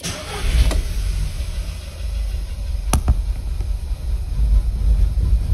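Petrol car engine starting up and running rough with a deep, uneven rumble, with one sharp crack about three seconds in. The roughness is a misfire: the second cylinder is dropping out completely.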